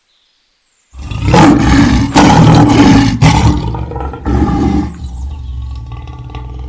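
A loud, rough animal call with several strong surges over about four seconds, easing into a quieter, lower, steadier drawn-out sound near the end.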